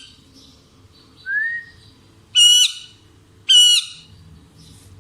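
Parrots calling: a short rising whistle about a second in, then two loud, harsh squawks about a second apart.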